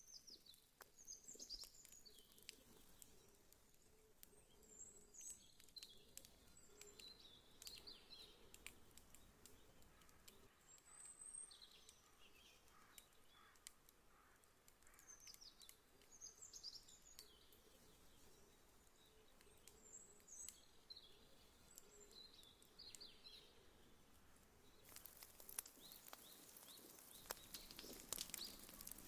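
Wood fire crackling softly, with scattered sharp pops that grow denser and louder near the end. Faint high chirps recur every few seconds.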